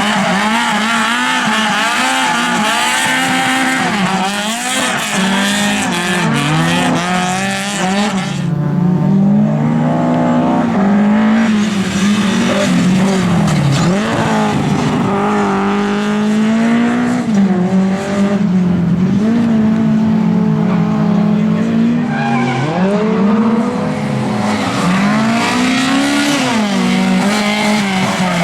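Lada race cars' four-cylinder engines running hard, revving up and dropping back again and again through gear changes, with several engines at different pitches overlapping.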